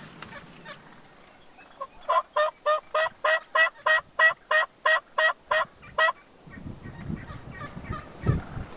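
Wild turkey yelping: a run of about fourteen evenly spaced notes, roughly three a second, lasting about four seconds. Low rumbling follows, with a bump near the end.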